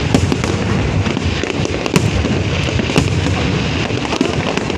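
Fireworks exploding: a continuous din of bangs and crackle, with sharper reports at the start and about two and three seconds in.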